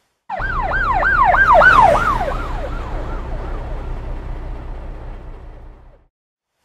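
Police car siren passing by with its engine: a fast, repeating up-and-down wail over a low rumble. It swells, then fades away and stops about six seconds in.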